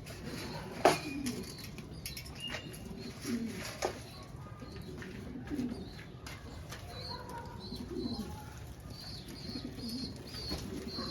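Domestic fancy pigeons cooing in repeated low, curving calls, with wing flapping and a few sharp clacks, the loudest about a second in. There are short high chirps near the end.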